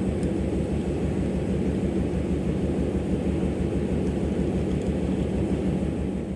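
Diesel locomotive engine running with a steady, fast low throb, beginning to fade out near the end.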